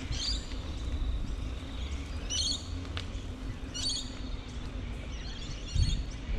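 Birds calling in short, high chirpy phrases, four times about a second or more apart, over a steady low rumble.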